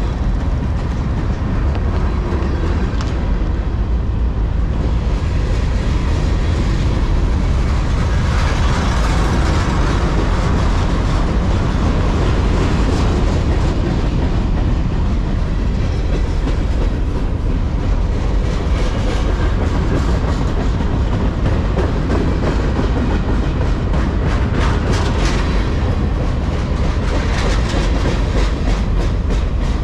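A freight train of loaded trash-container cars rolling past close by: a steady rumble of steel wheels on the rails with clickety-clack over the rail joints.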